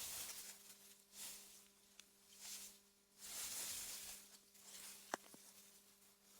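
Soft gusts of wind through meadow grass: a faint, airy hiss that swells and dies away every second or so, over a steady low hum. A single sharp click about five seconds in.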